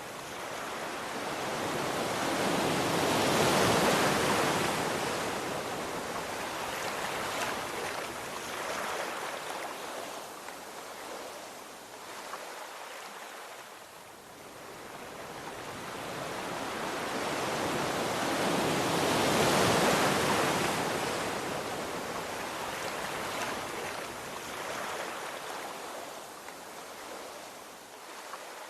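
Sea waves surging and washing in: two slow swells of surf, each rising and fading, the loudest about four seconds in and again near twenty seconds.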